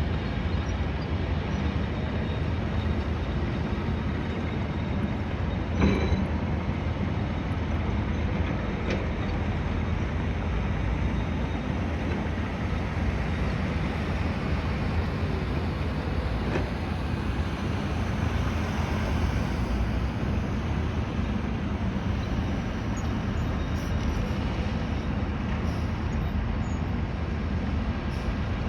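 Steady low rumble of construction-site and city noise, with a sharp clank about six seconds in and a few fainter knocks later.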